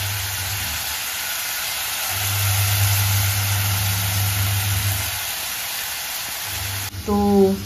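Chopped onions and tomatoes sizzling in oil in an open pressure cooker over a gas flame: a steady hiss, with a low hum that drops away about five seconds in and comes back soon after.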